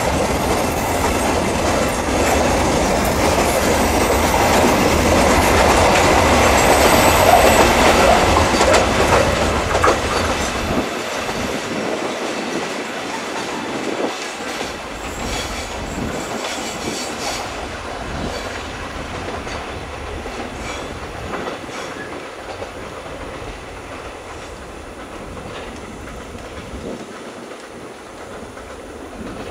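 Covered wagons of a pulp freight train rolling past on a curve, wheels clattering over the rail joints, with a thin high wheel squeal. The sound is loudest about seven seconds in, then fades as the last wagon goes by and the train rolls away.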